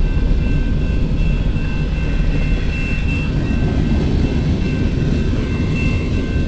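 Freight cars of a long CN manifest train rolling past a grade crossing, a steady rumble with thin, steady high-pitched tones above it.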